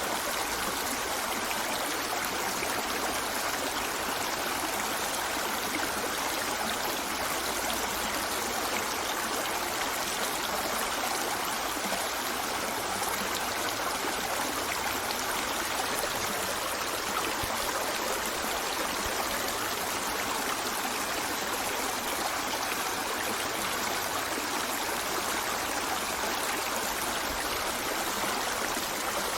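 River water flowing over stones, a steady rushing and trickling with no change.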